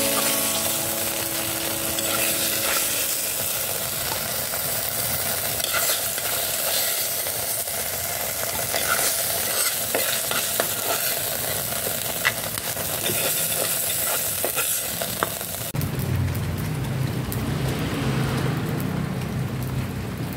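Oil sizzling in a clay pot of stir-fried moringa leaves while a metal spatula scrapes and clicks against the pot. About three-quarters of the way through the sizzle gives way to low background music.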